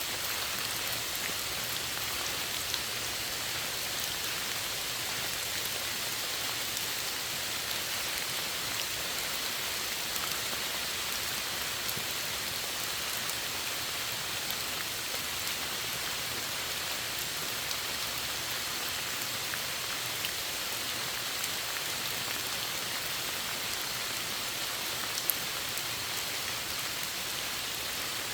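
Steady rainfall in a forest: an even hiss of rain with scattered individual drops ticking, one louder drip about 25 seconds in.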